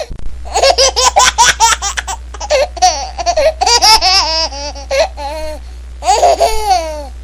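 A baby laughing hard: quick runs of high-pitched laughs in the first half, then longer rising-and-falling squeals of laughter. A steady low hum lies underneath.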